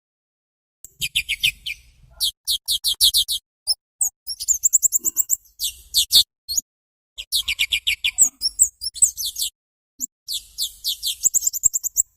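Songbird song in repeated bursts of rapid, high chattering notes, each burst about a second long with short pauses between.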